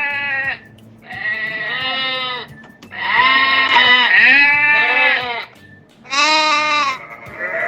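Sheep bleating: several bleats in a row, with a long wavering one in the middle.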